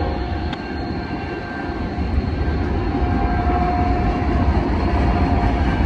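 Freight cars of a loaded manifest train rolling past: a steady rumble of steel wheels on rail, with a faint thin whine a little over three seconds in.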